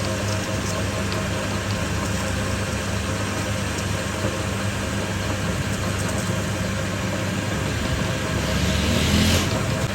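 A machine running with a steady hum. Near the end a louder rushing noise rises for about a second and stops.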